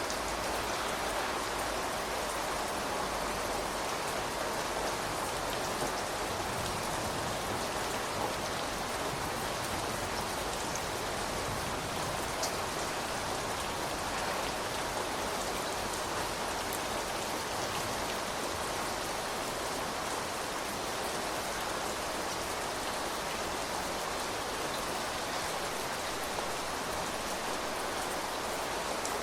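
Steady rain falling and pattering on surfaces, an even hiss with a few sharper single drops now and then.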